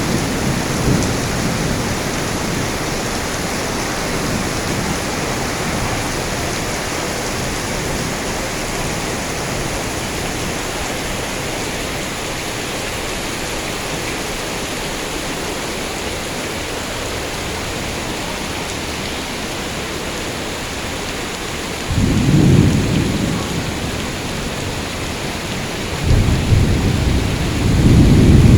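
Heavy rain pouring steadily, with thunder rumbling low at the start, again about three-quarters of the way through, and once more near the end.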